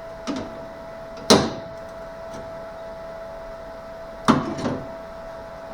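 Sharp metallic knocks and clanks of tools and sheet metal being handled: one just after the start, the loudest about a second in, and two close together near the end, each ringing briefly. A steady hum sounds under them.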